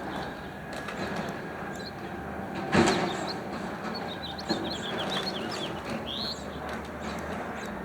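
Automated side-loader garbage truck's engine running steadily, with one loud bang about three seconds in and a lighter knock a second and a half later. Small birds chirp in a quick run of calls in the second half.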